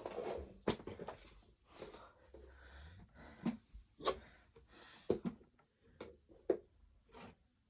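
Scattered light clicks, knocks and rustling of a plastic travel box fan and its power cable being handled as the adapter plug is fitted.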